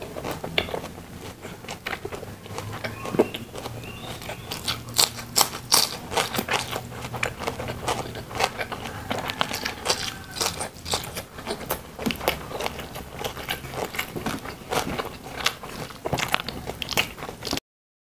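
Close-up eating sounds of crispy fried chicken: dense, irregular crunching bites and chewing with wet mouth clicks. The sound cuts out abruptly near the end.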